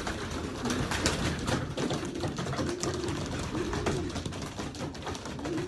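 Domestic pigeons cooing, several low arching coos in the second half, over steady rustling and scattered light clicks from the birds moving about.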